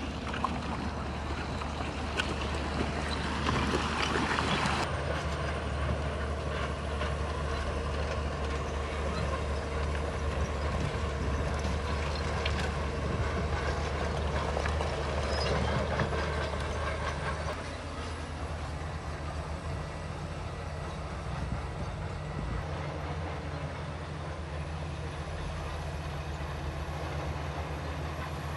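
Bulldozer's diesel engine running steadily, with scattered clanks and scraping from the machine at work. It gets somewhat quieter about two-thirds of the way through.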